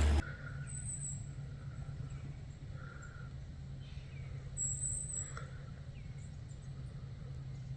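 Quiet outdoor ambience with faint bird calls: short high chirps about a second in and again near five seconds, over a low steady hum.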